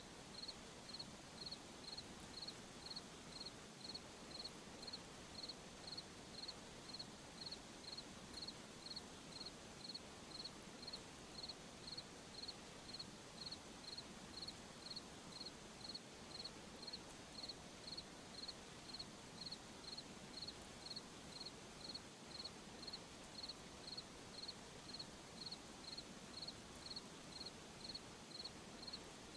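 A cricket chirping steadily, a little under two short high chirps a second, over a faint steady hiss of background night ambience.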